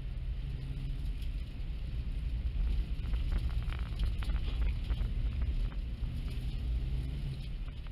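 Opel car engine running under load while driving through snow, heard from inside the cabin, its pitch rising and falling with the throttle. A few light knocks come in the middle.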